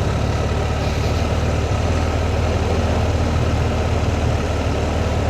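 Motorcycle engine running steadily at low speed in a low gear, heard from the rider's helmet, with wind and road noise over it.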